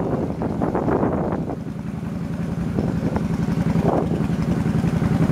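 Motorbike engine running while riding; it gets louder and steadier after about two seconds.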